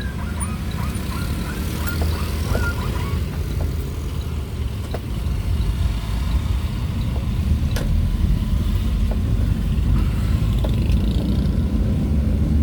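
Motor vehicle on the move: a steady low engine and road rumble. A few short chirps in the first few seconds.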